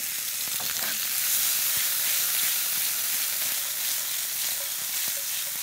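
Artichoke hearts sizzling as they brown in a hot pan: a steady high hiss, with a few faint clicks.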